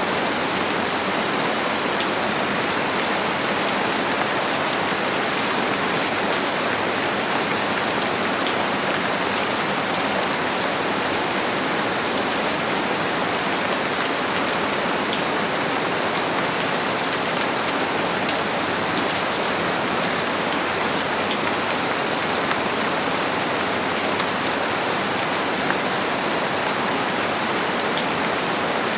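Steady heavy rain falling, a dense even hiss with many fine individual drop taps, unchanging throughout.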